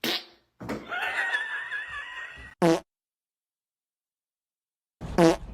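Two loud, short, sputtering fart sounds, one about two and a half seconds in and the other near the end, with dead silence between them. Before the first comes a wavering, high-pitched sound.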